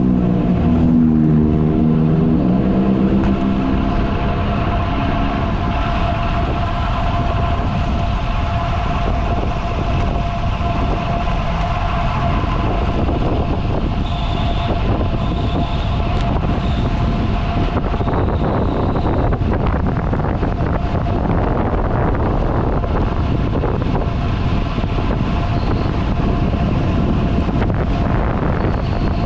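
Loud, steady rush of wind over the camera's microphone on a moving road bike, with a thin steady whine throughout. A pitched drone falls away in the first three seconds.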